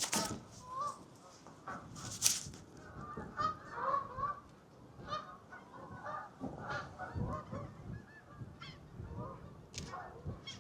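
A flock of geese honking, many short overlapping calls one after another. A few sharp clicks stand out, the loudest about two seconds in.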